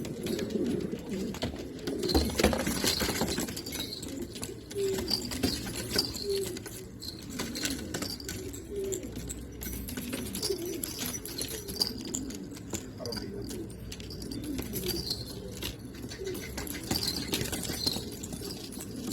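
Several domestic pigeons cooing continuously and overlapping, with short high chirps and light clicks among the coos.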